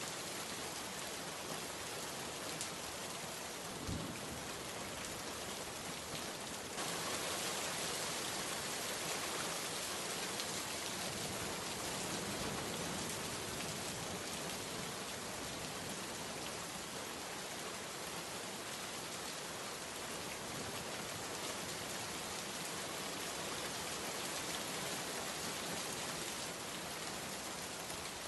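Steady heavy rain falling and pattering on surfaces, growing a little louder about seven seconds in. A single short low thump sounds about four seconds in.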